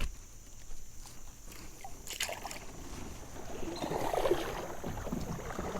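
A knock against a kayak, a sharp click about two seconds in, then water sloshing and splashing around the hull, growing louder in the second half.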